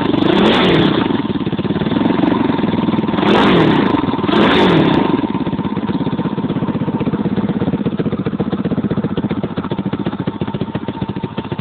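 150 cc dirt bike engine revved in several quick throttle blips, its pitch rising and falling each time, then dropping to a steady idle about five seconds in.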